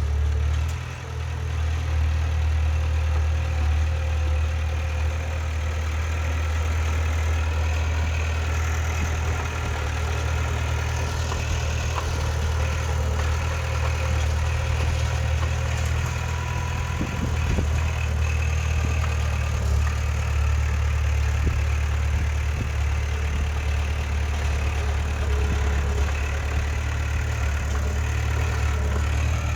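Heavy diesel engine of earthmoving machinery running steadily and deep in pitch, with a brief dip in level about a second in.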